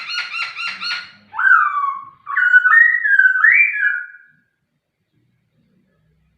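White-rumped shama singing: a fast run of repeated notes, then loud whistled notes that glide in pitch, stopping about four seconds in.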